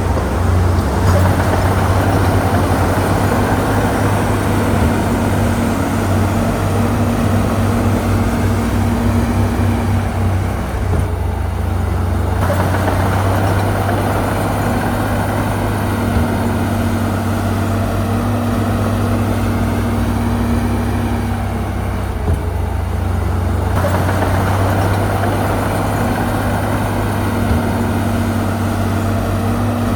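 Heavy diesel engine of earthmoving machinery (bulldozer or dump truck) running steadily under work. The engine note eases off briefly twice, about a third of the way in and again about three quarters in, then picks back up.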